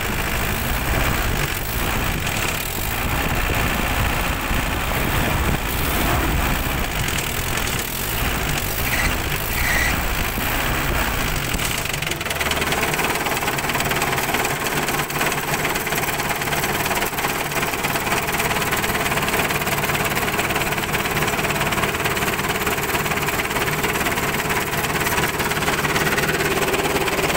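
Engine running steadily at idle. About twelve seconds in the deep low rumble drops away and the sound turns smoother and more even.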